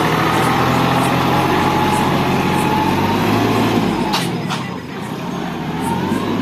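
Massey Ferguson 6026 tractor running, its engine note steady under a whine that slides up and down in pitch. About four seconds in come two sharp clunks, and the engine sound dips and then picks back up.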